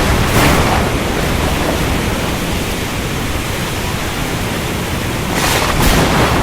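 Storm over the ocean: a steady roar of rain and surf, with two louder hissing surges, about half a second in and again near the end.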